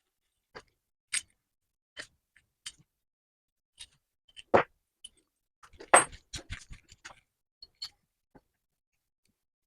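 Scattered sharp taps and knocks from tools and metal parts being handled on a workbench during repair work on a cast-iron bench vise. There is a louder knock about four and a half seconds in, and a short burst of clattering about a second later.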